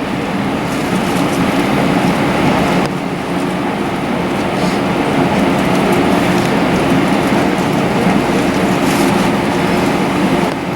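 Steady cabin noise inside an Airbus A320: a continuous rumble with a low hum from the engines and air system, dipping slightly about three seconds in.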